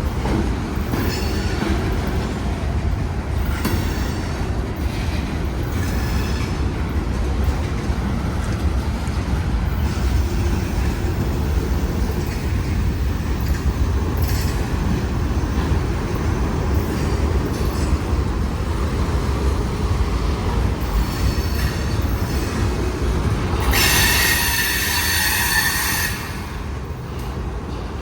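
Freight train rolling past slowly with a steady low rumble, its wheels giving short high squeals and one louder squeal lasting about two seconds near the end.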